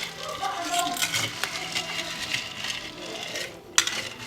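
Faint background voices with one sharp metallic clink near the end.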